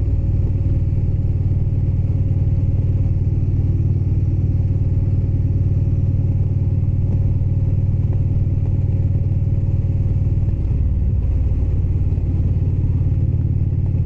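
Indian Springfield's V-twin engine running steadily while riding at road speed; its note shifts about ten seconds in.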